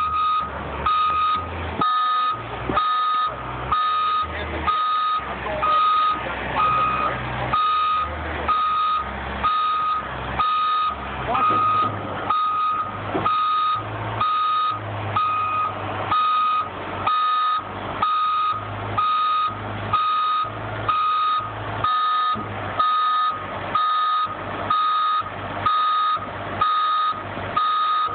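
Cement mixer truck's back-up alarm beeping steadily about once a second as the truck reverses, with its engine running underneath; the engine's pitch rises partway through.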